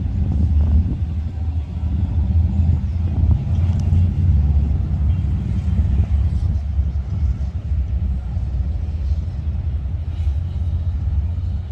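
Motorcycle engines rumbling steadily with a deep, low exhaust note, as bikes idle and ride slowly past.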